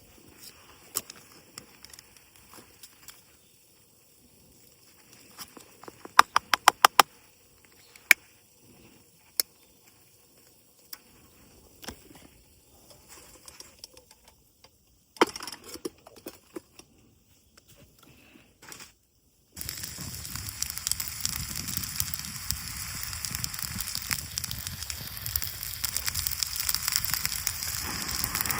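Food frying in a pan over a campfire: scattered light taps and clicks of cooking utensils, with a quick run of sharp clicks, then about twenty seconds in a dense, steady sizzle starts abruptly and keeps going.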